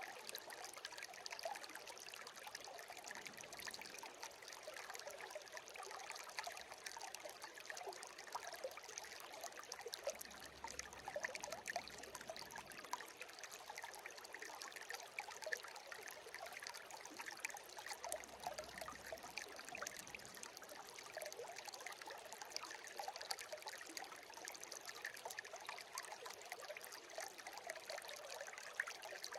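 A shallow stream babbling and trickling over stones, a steady rush of water flecked with small gurgles and bubbling splashes.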